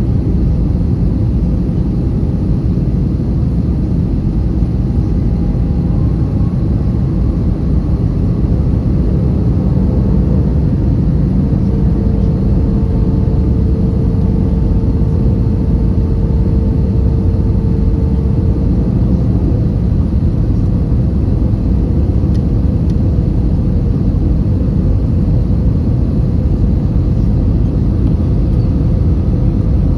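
Steady low rumble inside an Airbus A320 cabin in flight, the mix of engine and airflow noise, with faint steady hums over it.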